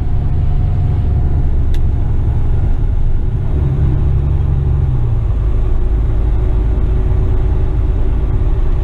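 Western Star tipper truck driving, its engine and road noise heard as a steady low rumble inside the cab, easing slightly about five seconds in.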